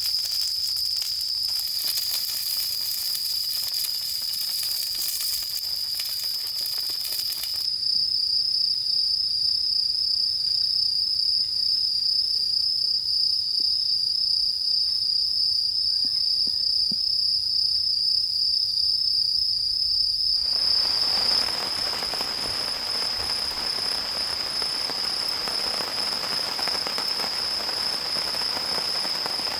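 Crickets trilling in one steady, high, unbroken chorus. About two-thirds of the way through, an even rain patter begins abruptly beneath them.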